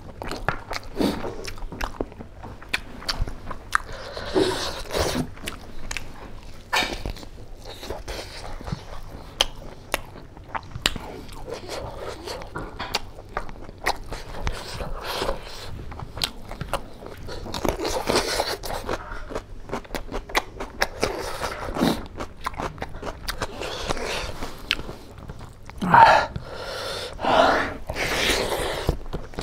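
Close-up eating sounds of rice and pork curry eaten by hand: chewing with many short wet mouth clicks and smacks, and fingers mixing the rice on the plate. The loudest stretch comes near the end.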